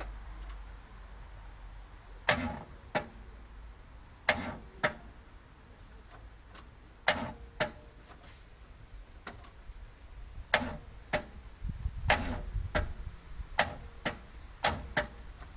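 Starter solenoid of a 1973 Buick Riviera clicking in repeated pairs, about half a second apart and every couple of seconds, without the engine cranking. The engine will not start despite a new battery.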